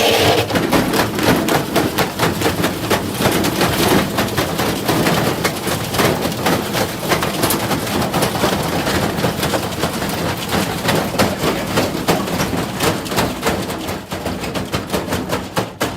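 Bricks banging around inside a spinning washing machine drum: a continuous, rapid, irregular clatter of hard impacts. The machine is lying on its back.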